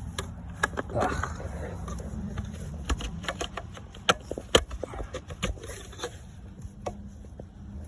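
Car wiring-harness plugs and loose wires being handled, a run of irregular plastic clicks and knocks.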